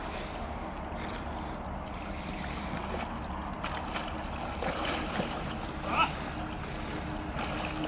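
Faint water splashing and lapping from a person swimming in cold pond water, over a steady low wind rumble on the microphone.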